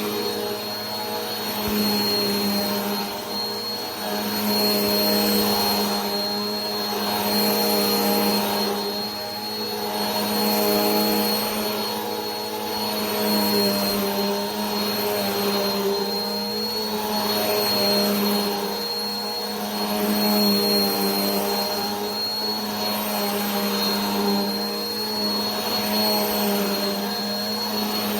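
Vacuum cleaner running steadily: a motor hum with a thin high whine over a rushing hiss, the level swelling and easing slightly every two to three seconds.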